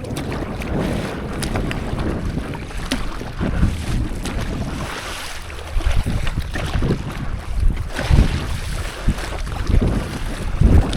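Wind buffeting the microphone in irregular gusts, over sea water splashing and lapping on the water around a stand-up paddleboard.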